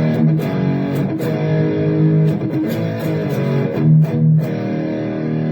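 Electric guitar played through a Donner Arena2000 multi-effects pedal set to its Dynacomp compressor model. Notes and chords ring on and change several times.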